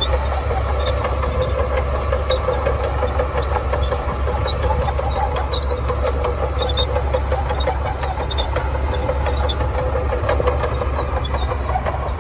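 Shantui DH17C2 bulldozer's diesel engine running steadily, with scattered light metallic clinks.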